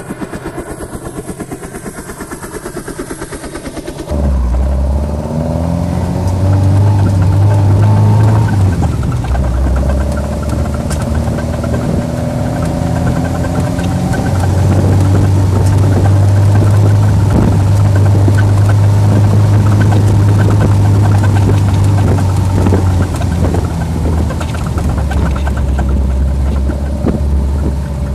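Caterham Super Seven sports car engine, heard from the open cockpit. It starts with a fast, even pulsing. About four seconds in it becomes the engine pulling under load, its pitch rising through the revs with a break that sounds like a gear change. It then settles into a steady cruise and eases off near the end.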